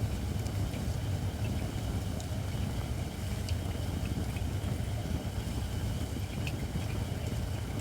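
Campfire of not-yet-seasoned shirakashi (Japanese white oak) logs burning in a fire pit: a steady low rumble of flame with faint, scattered crackles.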